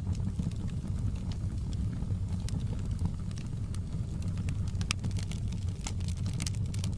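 Wood fire burning in a fireplace: a steady low rumble of flames with scattered sharp crackles and pops, which come more thickly near the end.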